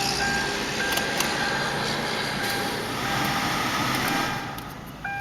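Car's warning chime beeping over and over, with the ignition on before cranking, over a steady background noise that drops away about four seconds in.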